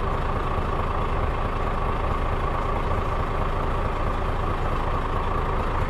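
Heavy diesel lorry engine idling steadily.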